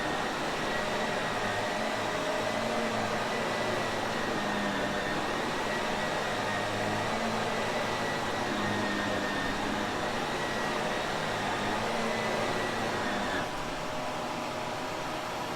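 Shark Navigator upright vacuum cleaner running steadily, a whirring motor hum with a high whine. About thirteen seconds in, the sound drops slightly in level and the high whine stops.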